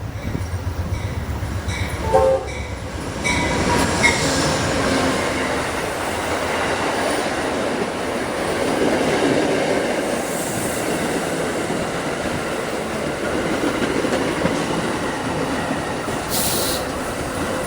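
Amtrak Silver Star passenger train pulling into the station, a steady rumble of the cars rolling past with squealing wheels. There are short pitched tones a few seconds in, and a brief hiss near the end.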